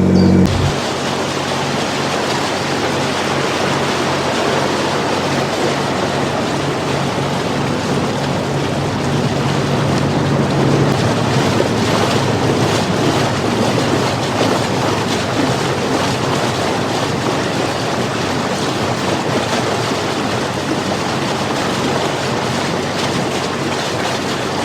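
Steady rushing of wind and water from a boat motoring along a canal, with a faint low engine hum under it in the first half.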